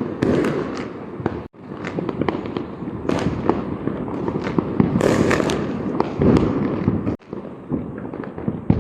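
Diwali firecrackers and fireworks going off in rapid, irregular succession: many sharp cracks and bangs over a dense background crackle. The sound drops out for an instant twice.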